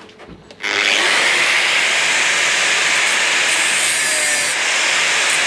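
A power tool starts up less than a second in and runs steadily, cutting into a motorcycle fuel tank around its welded lip to break that part of the tank free.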